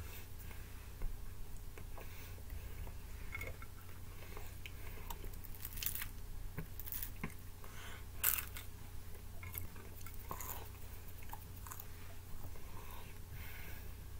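A person chewing and biting pizza topped with white sauce and bacon: soft mouth sounds broken by scattered short crunchy clicks, the loudest bite about eight seconds in.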